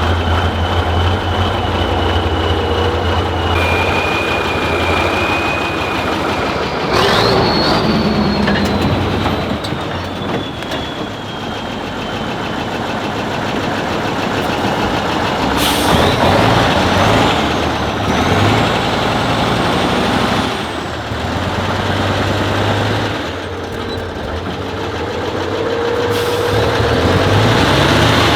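Heavy off-road trial truck's diesel engine working hard at crawling speed, with a high whine that drifts in pitch. Sudden hisses break in about 7, 16 and 26 seconds in, typical of air released from the brakes.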